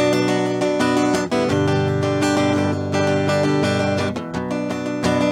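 Acoustic guitar strumming chords, the instrumental intro of a live song before the vocals come in.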